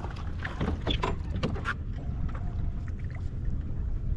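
Steady low rumble of a boat on the water, with a quick run of sharp knocks and clicks in the first two seconds, like gear being handled on deck.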